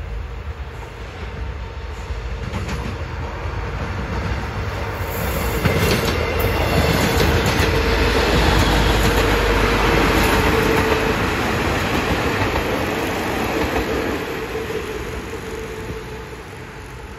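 Diesel multiple-unit passenger train passing close by: engine and wheel noise build up, with a run of clicks as the wheels cross rail joints, loudest in the middle, then fade as the train moves away. A steady whine runs underneath.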